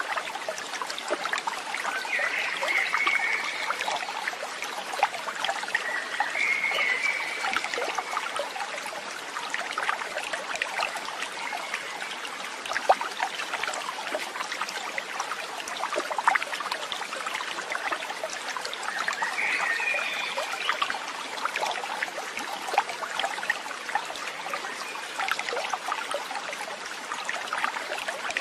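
Small stream trickling and babbling steadily, with a few short chirps near the start and again past the middle.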